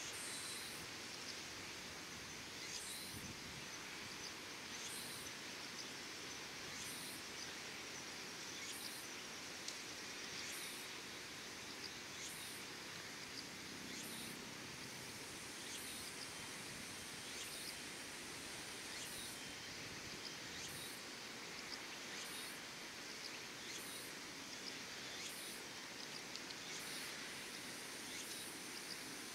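Insects calling: a steady high chirring hiss, with a short, very high pulse repeating about every two seconds.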